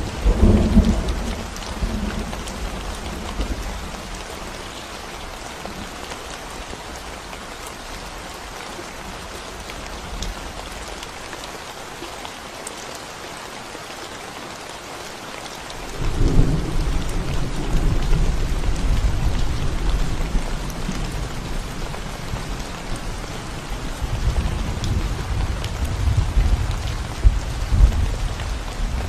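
Steady rain falling on a concrete road, with rolling thunder: a low rumble fading away over the first few seconds, and another breaking in suddenly about halfway through and rumbling on, swelling, to the end.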